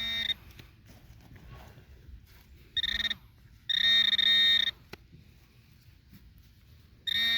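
Metal detector sounding its electronic target tone in separate beeps as it sweeps over a buried target: a short one about three seconds in, a longer one of about a second just after, and another short one near the end.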